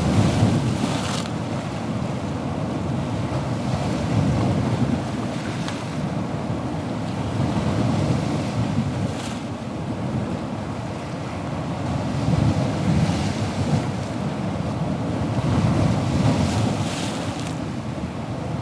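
Ocean waves breaking on a shore, a continuous rumbling wash that swells every few seconds.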